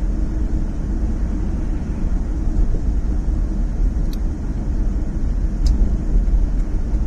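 Steady low rumble of road and engine noise inside a moving car's cabin, with two faint high clicks about four and six seconds in.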